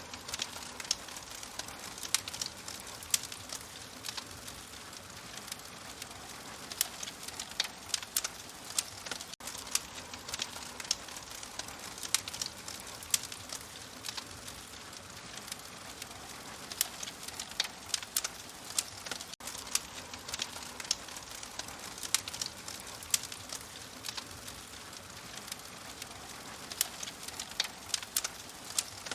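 Fire crackling: a steady soft hiss with frequent irregular sharp pops and snaps, a few of them much louder than the rest.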